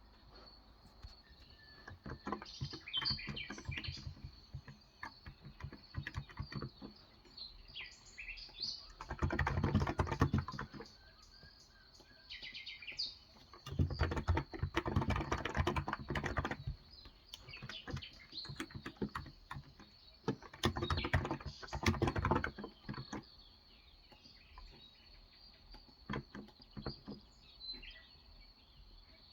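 Typing on a Cox Endeavor electro-capacitive (Topre-style) 35 g tenkeyless keyboard, in three dense runs of rapid keystrokes lasting two to three seconds each, with scattered lighter taps between. Birds chirp in short calls in the gaps, over a steady high tone.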